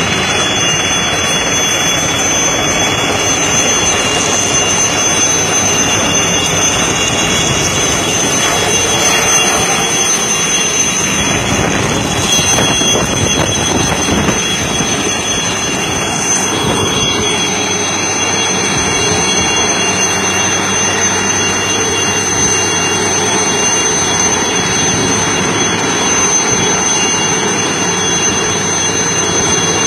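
Helicopter running: a loud, steady rush of engine and rotor noise with a thin, high, steady whine on top.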